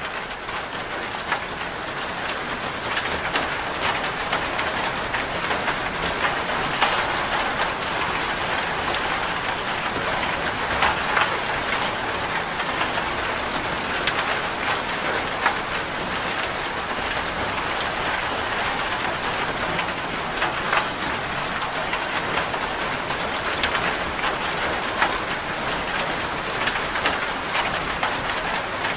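Steady rain ambience: an even hiss with many scattered sharper taps throughout.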